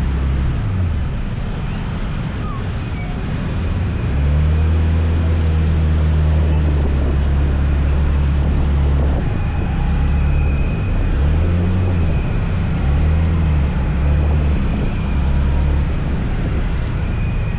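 Motor scooter's engine running on the move, its pitch rising and falling with the throttle several times in the second half, over wind buffeting the microphone and road noise.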